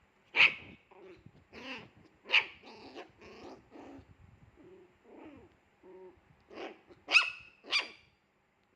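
Pomeranian puppy barking in sharp bursts, with lower growls between them; the loudest barks come about half a second in, around two and a half seconds in, and as a quick pair near the end.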